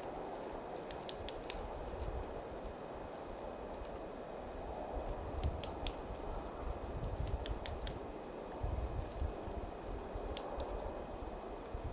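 Outdoor ambience at a winter bird feeder: a steady hiss with low wind rumble, scattered sharp ticks, and a few faint, short, high chirps from small birds.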